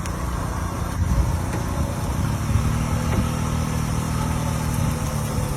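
Large tractor engine running steadily at a low pitch. A steady droning note joins in about two seconds in and fades out near the end.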